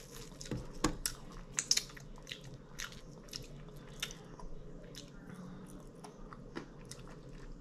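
A person chewing and biting food close to the microphone: irregular short clicks and crunches several times a second.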